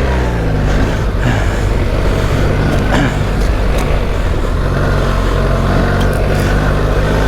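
BMW R 1300 GS Adventure's flat-twin boxer engine running under varying throttle, the revs rising and falling as the motorcycle is ridden through soft sand, with a few short knocks.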